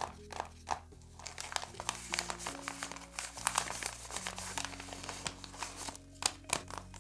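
Paper crinkling and rustling as a handmade paper blind bag and its paper contents are handled, densest in the middle, with a few sharp crackles near the end, over soft background music.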